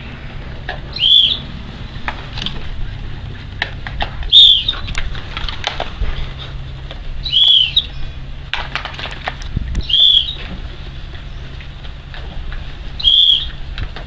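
A bird repeating a short, high, arched call about every three seconds, five times in all. Between the calls come scattered soft clicks and wing flaps from a flock of painted storks.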